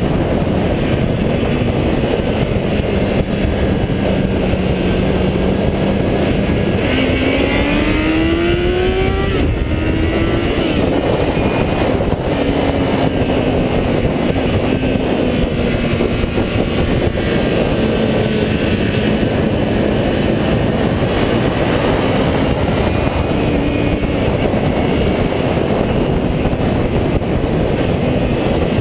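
A 400cc motorcycle engine running at speed over a heavy rush of noise. Its note holds steady, climbs sharply about seven seconds in as it revs up, then falls back in pitch in stages.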